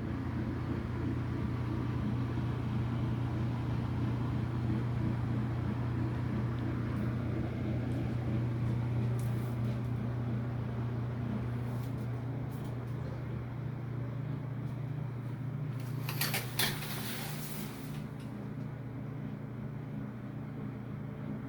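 Steady low engine drone running throughout, easing slightly in the second half, with a brief rush of hiss about sixteen seconds in.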